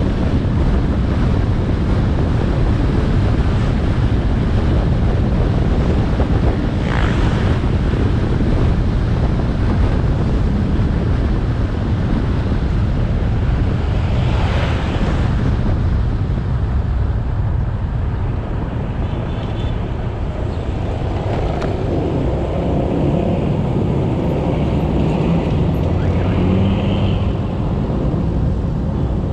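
Motorcycle riding on the road, heard from an action camera: a steady rush of wind on the microphone over the engine and tyre noise. Two brief louder swishes come about a quarter of the way in and again about halfway.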